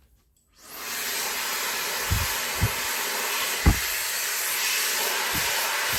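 A 110,000 RPM, 1400 W high-speed hair dryer switches on about half a second in and quickly comes up to a steady rush of air. A few dull low thumps sound over it.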